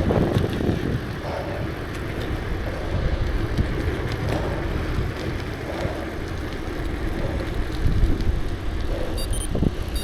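Wind buffeting the microphone over steady tyre and road noise while riding a bicycle.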